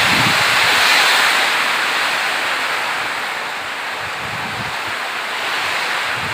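Steady rain falling, a dense even hiss, with a few brief low rumbles near the start and again about two-thirds of the way through.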